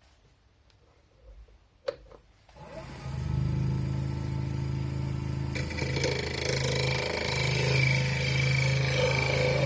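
Wood lathe switched on with a click and its motor running up to a steady hum; about halfway through a broader hiss joins the hum.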